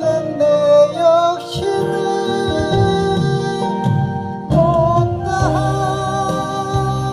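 A singer holding long, wavering notes over instrumental accompaniment with a steady bass line.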